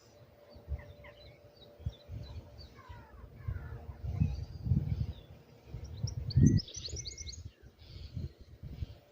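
Small birds chirping, with short high chirps and quick downward-sliding notes and a dense flurry of chirps about seven seconds in. Irregular low rumbles run underneath and are loudest around four to five seconds and again about six and a half seconds in.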